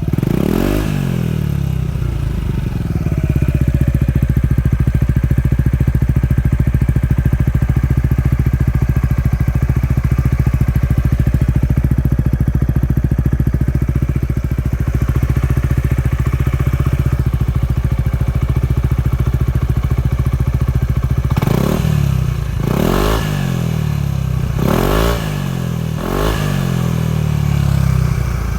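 Yamaha Majesty S 155 scooter's single-cylinder four-stroke engine running through a BEAMS CORSA-EVO heat-titanium aftermarket muffler. It revs briefly just after the start, idles steadily for most of the time, then is blipped four times in quick succession near the end, each rev rising and falling back to idle.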